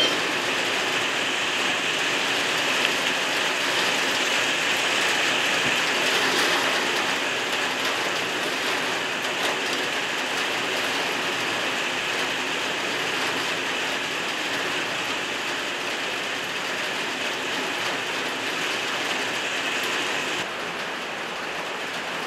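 Steady rain falling, an even hiss of drops that eases a little near the end.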